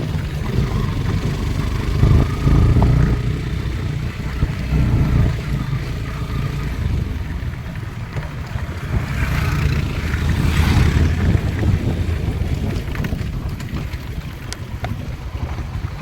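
Steady low rumble of a moving road vehicle, with wind noise on the microphone and a brief hissing rise about two-thirds of the way through.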